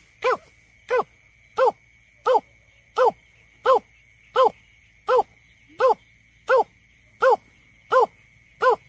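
Greater painted-snipe calling: a steady series of short, hollow hooting notes, about one every 0.7 seconds, each dropping slightly in pitch.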